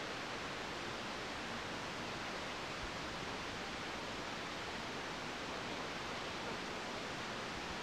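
Steady, even rushing noise of wind and water aboard a sailing trimaran.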